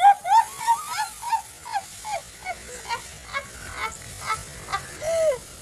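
A bird calling over and over in short notes falling in pitch, about two a second, then one longer falling call near the end.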